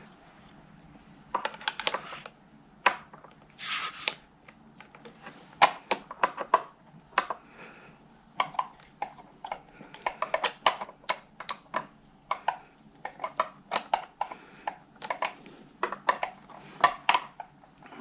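Hand tools working on motorcycle parts: irregular runs of sharp metal clicks and clinks, with a short rushing noise about four seconds in.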